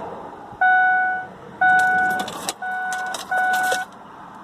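Ford Explorer's key-in-ignition warning chime dinging about once a second, four fading single-pitch dings, with the ignition on. A few brief clicks come in the middle.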